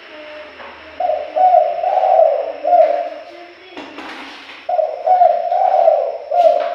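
Spotted dove cooing: two loud phrases of several low, linked coo notes, the second starting about halfway through. A short knock falls between the phrases.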